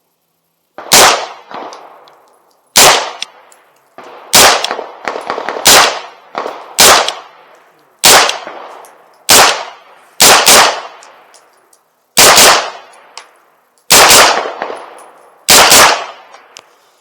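Aero Precision EPC 9 9mm pistol-caliber carbine fired semi-automatically: about a dozen shots spaced one to two seconds apart, a few in quick pairs, each with a short echoing tail.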